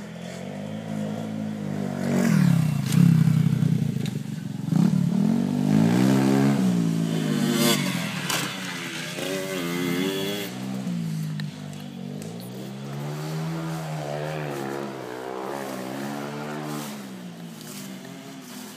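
Pit bike engine revving, its pitch rising and falling again and again with the throttle. It is loudest in the first half and quieter after.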